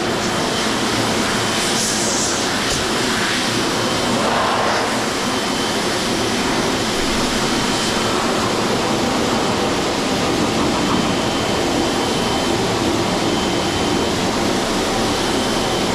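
Car wash air dryer blowers running, a loud steady rush of air over the car.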